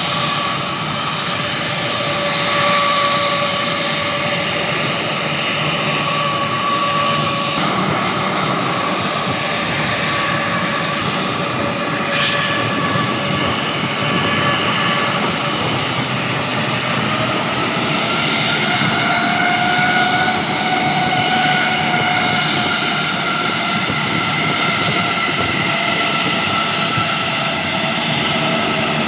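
Jet aircraft engines running: an even rush with a steady whine on top. The whine rises in pitch about two-thirds of the way through, then eases slightly.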